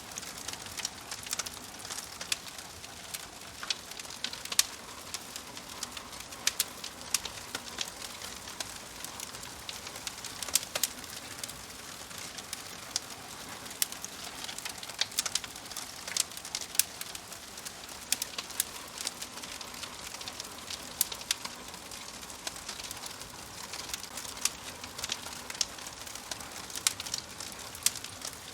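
Wood fire burning in a fireplace: a steady soft hiss with frequent, irregular sharp crackles and pops from the logs.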